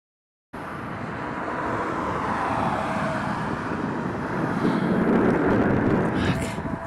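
Road traffic: the steady noise of motor vehicles, swelling as one passes close by near the end and then easing off.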